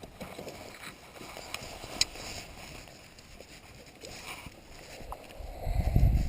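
Faint handling knocks on a kayak, with one sharp click about two seconds in, then a loud low rumble of wind buffeting the microphone near the end.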